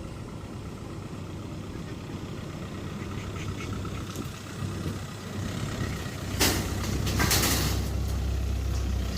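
Truck engine running at idle, a steady low hum that strengthens about six seconds in. Two short loud bursts of hiss come about six and a half and seven and a half seconds in.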